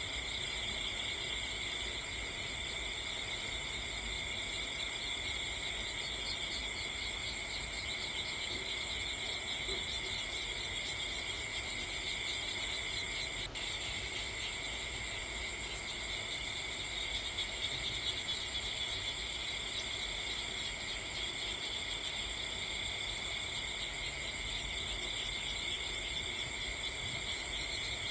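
Steady chorus of night insects such as crickets, a continuous high chirring in several layers, with a single sharp click about halfway through.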